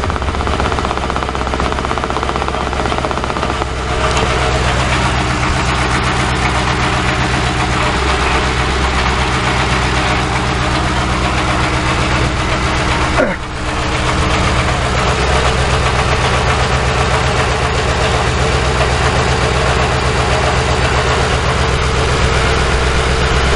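A 2006 Ford Crown Victoria Police Interceptor's 4.6-litre V8 idling roughly, with a steady drone; the engine is shaking at idle. There is a brief thump about thirteen seconds in.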